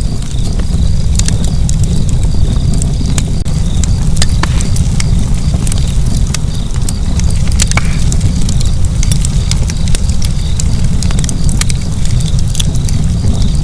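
Fire crackling, with frequent sharp irregular pops over a steady low rumble.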